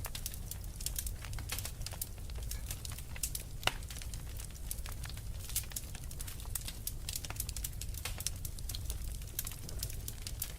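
Wood fire crackling, with frequent small sharp pops and one louder snap near four seconds in, over a steady low rumble.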